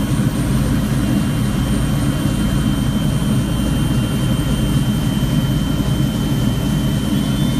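Helicopter's engine and rotor running steadily before takeoff: a dense low rotor noise with a steady high-pitched whine over it.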